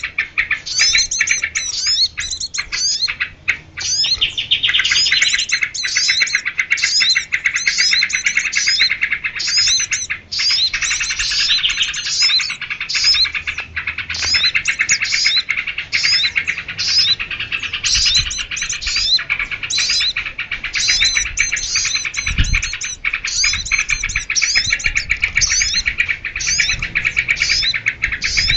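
Bird-lure call of small songbirds: a dense, continuous chorus of high chirps and fast trills, with short repeated sweeping notes over a steady trilling band.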